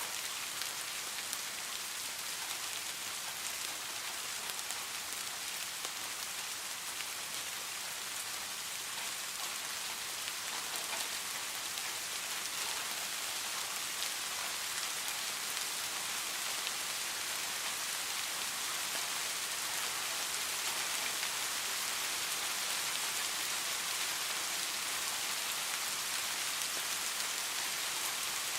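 Steady rain falling: an even hiss of many drops with fine scattered ticks of single drops, swelling slightly louder over the span.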